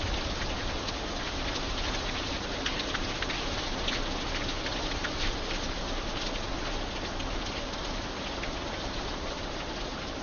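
Steady light rain falling, a continuous hiss with many individual drops ticking sharply through it.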